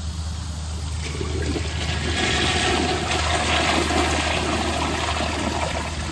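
Proflo Jerritt toilet flushing with its siphon jet just unclogged. Rushing water starts about a second in, swells, and dies away near the end, over a steady low hum.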